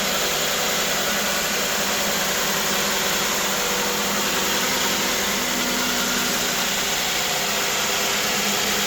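Ford Fusion's 3.5-litre V6 engine idling steadily, just started cold on fresh oil after a water pump replacement.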